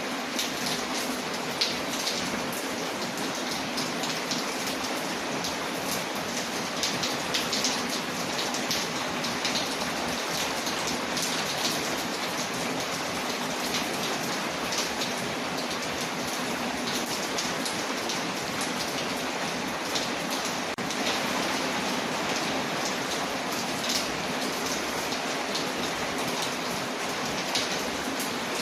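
Steady rain on a window, a dense even hiss, with the small sharp crackles of a wood fire popping irregularly throughout.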